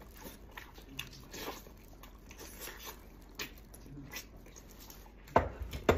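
Close-up eating sounds: chewing and lip-smacking on soft, falling-apart braised lamb pulled off the bone, with faint wet clicks throughout. Two loud sharp knocks come near the end.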